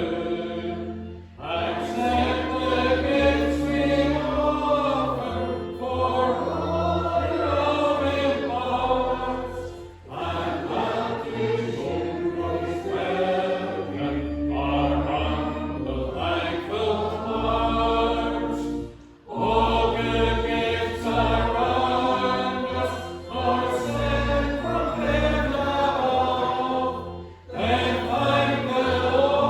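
Many voices singing a hymn together over sustained low accompanying notes, in sung lines about eight or nine seconds long with a brief breath pause between them.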